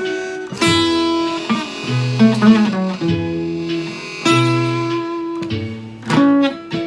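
Blues guitar playing an instrumental passage: picked notes and chords, with a few bent notes about two seconds in.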